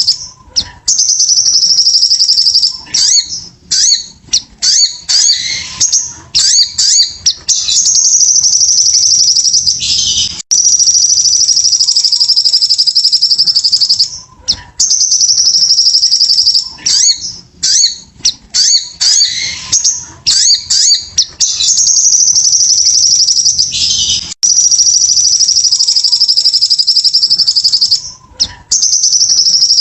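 Sogon (sogok ontong) songbird singing vigorously: long, high, buzzing trills of three to four seconds each, alternating with quick runs of varied chirps and twitters.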